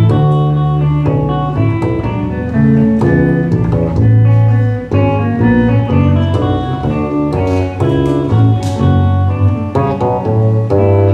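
An instrumental ensemble playing a Baroque fugue live on plucked strings, several melodic lines moving together over a strong bass.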